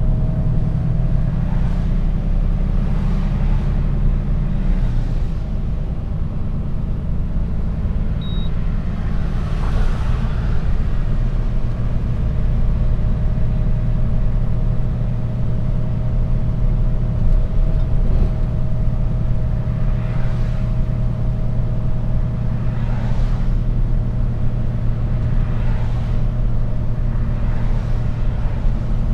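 Mercedes-Benz Actros truck's diesel engine running with a steady low drone while driving, with occasional swells of road noise.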